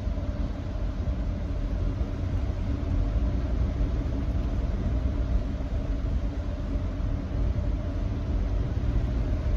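Nissan Note e-POWER driving at a steady speed on a wet expressway: a steady low road-and-tyre rumble with a hiss over it.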